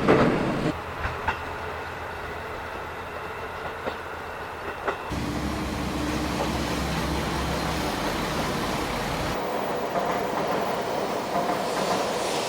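Electric train running on rails, with a few sharp wheel clicks in the first half. The sound changes abruptly about a second in, again near the middle and again near three quarters of the way through.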